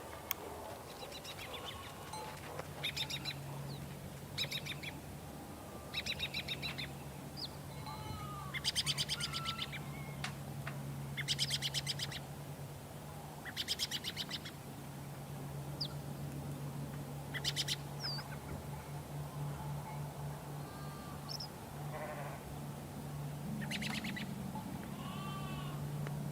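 Farm ambience: short trilled bird calls every few seconds, sheep bleating at times, and a low steady hum underneath.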